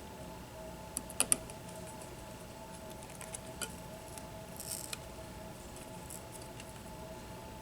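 Small clicks and clinks of tools and parts being handled on a workbench, the loudest a quick cluster about a second in, with a brief rustle about two-thirds through, over a steady faint hum.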